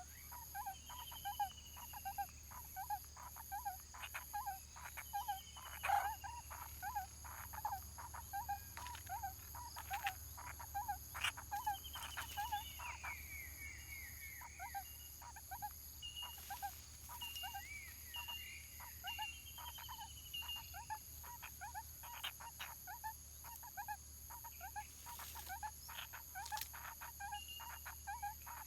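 A barbet's low, hollow note repeated steadily, about two a second, with other small birds chirping and trilling higher up now and then. A steady high-pitched whine runs underneath.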